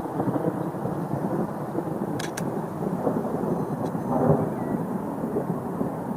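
Rolling thunder, a long continuous rumble that swells again about four seconds in.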